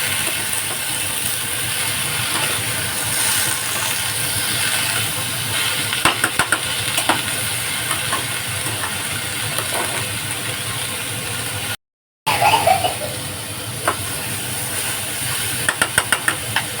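Pumpkin pieces sizzling in hot oil and spices in a cooking pan, a steady hiss, with a few quick clicks and scrapes of a spatula about six seconds in and again near the end.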